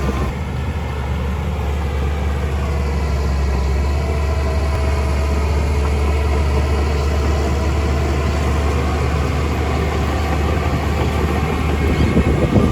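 Diesel engine of a heavy earthmoving machine running steadily with a low rumble, getting a little louder and rougher near the end.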